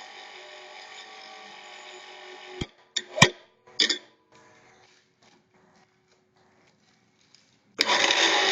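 Motor of a PG200 pipe-bending machine running steadily, then stopping about two and a half seconds in. A few sharp metal knocks follow, then a quiet pause, and the machine starts up again loudly near the end.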